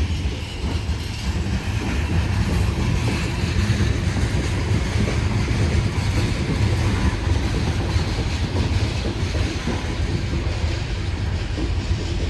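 Union Pacific coal train rolling slowly past at close range: a steady, loud low rumble of the cars on the rails.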